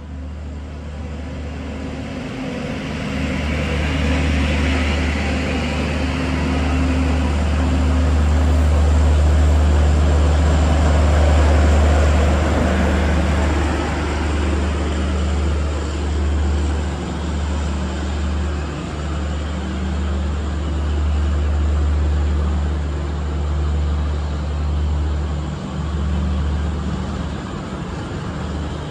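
Railway train passing on a nearby line: a heavy low hum and the rumble and rush of the train, swelling to its loudest midway and then easing off.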